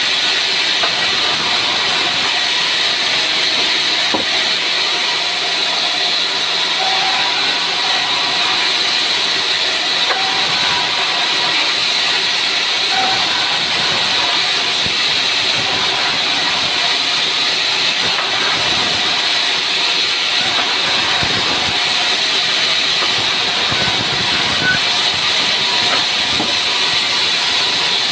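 Sawmill saw cutting dry pinewood: a loud, steady, high-pitched hissing whir with no letup.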